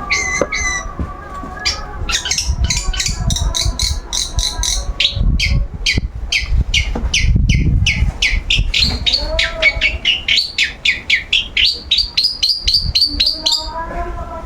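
Long-tailed shrike (cendet) singing a long, rapid run of sharp, downward-sweeping chirps, about three to four a second, quickening near the end before stopping abruptly. A low rumble sits underneath midway.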